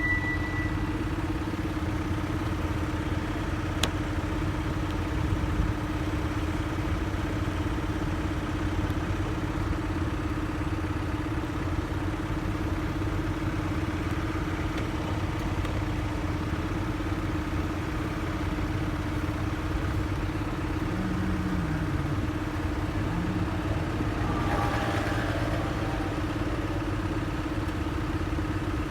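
Motorcycle engine running at a steady, unchanging pitch, with low road and traffic rumble. A single click about four seconds in and a brief burst of passing noise near the end.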